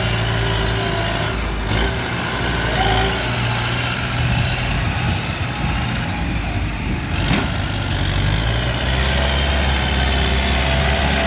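Kubota M108S tractor's diesel engine running while it pushes soil. Its steady low note turns rough and uneven through the middle under load, then settles steady again near the end.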